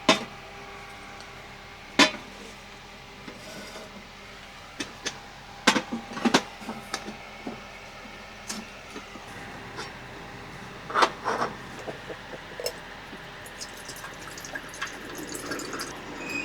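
Pots, pans and dishes being handled and washed: sharp knocks and clinks at irregular intervals over a faint steady hum.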